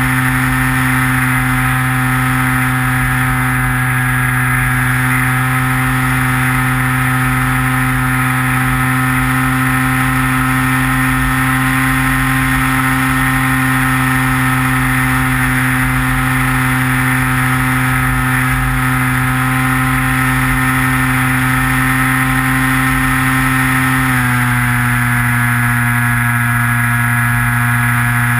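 Electric motor and propeller of a Skywalker RC plane droning at a steady pitch, picked up by the onboard camera, with low wind rumble underneath. About 24 seconds in the pitch drops a step and holds lower, as the throttle is eased back.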